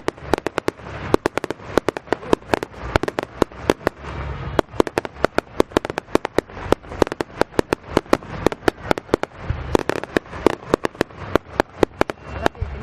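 Fireworks display: a rapid, irregular barrage of sharp bangs and crackling bursts, several a second, over a low rumble.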